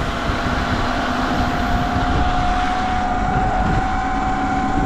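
Sur-Ron X electric dirt bike's motor whining as a single steady tone that creeps slightly higher as the bike gathers speed, over a constant rush of wind on the microphone and wet-road noise.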